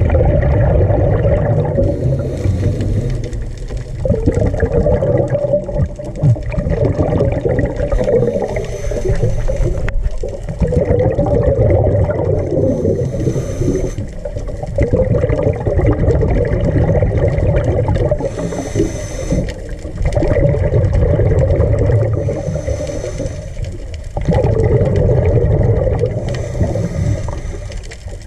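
A diver breathing underwater: bubbling and rumbling water, with a hissing breath and a rush of exhaled bubbles about every four to five seconds.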